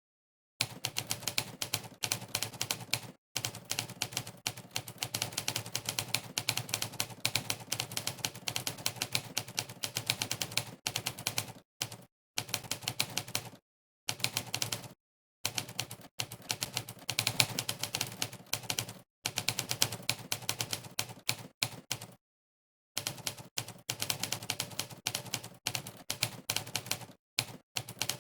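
Monkeytype's typewriter keystroke sound effect: rapid typewriter key clacks, one for each keystroke at fast typing speed. The clacks come in runs broken by a few brief dead-silent pauses.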